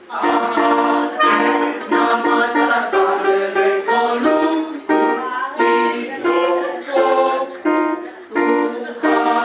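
Choir singing a phrase of a Batak-language song in parts, several voices on sustained chords sung note by note with short breaks between them.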